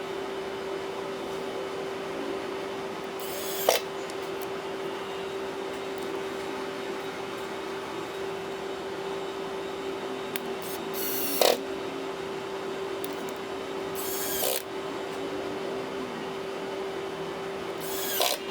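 Short scrapes of small hand tools or parts against the tablet's casing, four times, each about half a second long and ending in a click, over a steady electrical hum.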